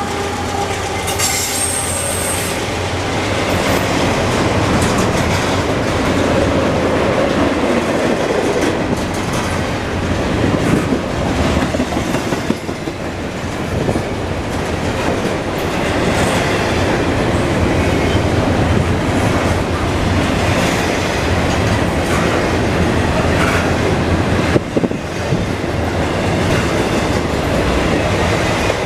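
Freight cars of a CSX intermodal train (containers on flatcars) rolling past, a steady rumble with wheels clicking over rail joints. A brief high wheel squeal comes about a second in.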